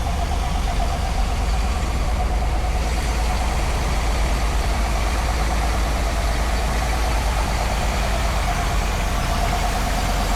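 Truck engine running steadily at low revs, a deep even rumble.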